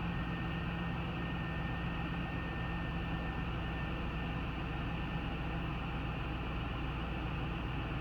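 2000 GMC Yukon's 5.3L Vortec V8 idling steadily.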